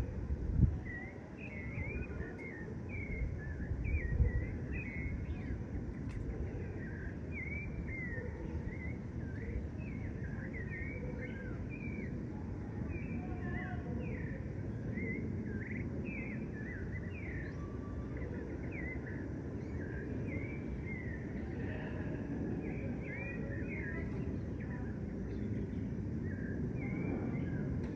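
Many small birds chirping in short, quick calls all through, over a steady low rumble, with two brief low bumps in the first few seconds.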